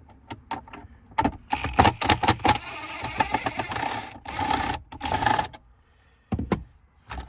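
Plastic dash trim being worked loose by hand: a quick run of clicks, knocks and rattles, with scraping and rustling in between, then a couple of last knocks near the end.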